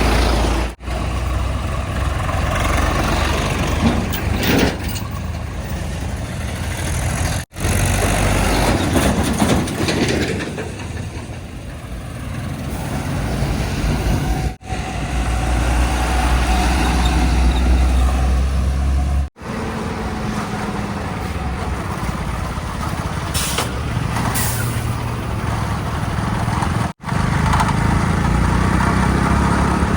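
Heavy diesel engines of earthmoving and haulage vehicles running, with a backhoe loader and tipper trucks working mud. Abrupt cuts every few seconds break the sound up. Two short hisses come about three-quarters of the way through.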